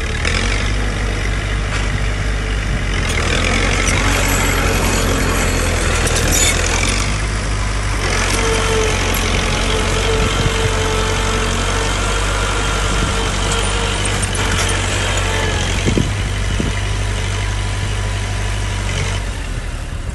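Heavy diesel engine of earthmoving equipment running steadily under load, with a higher whine over it and a single knock near the end, then dropping off just before the end.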